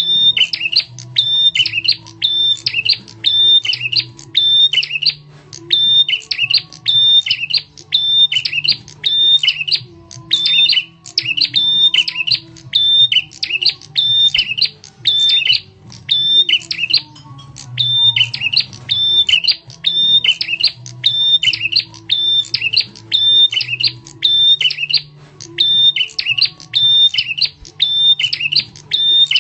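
Prenjak tamu, a prinia, calling in a sharp, loud, repeated phrase, a little more than once a second without pause: a lure call meant to draw other birds in.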